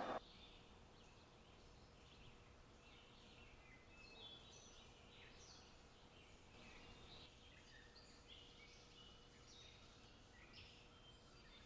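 Several small birds chirping and trilling, faint, in many short overlapping calls, over a faint steady hum.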